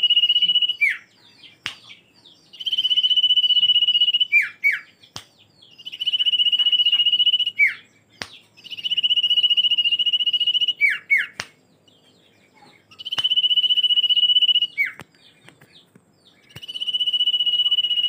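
Common iora (Aegithina tiphia) singing its drawn-out whistle song: a long, steady, slightly rough high whistle of about a second and a half, dropping into one or two quick falling notes, repeated five times at intervals of about three and a half seconds. A few sharp clicks fall in the gaps between phrases.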